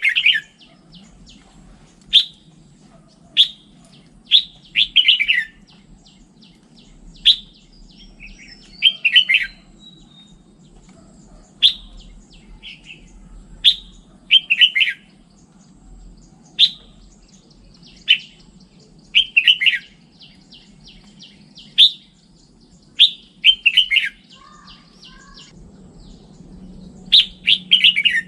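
Red-whiskered bulbul singing short, bright phrases that come again every second or two, some single notes and some quick runs of several.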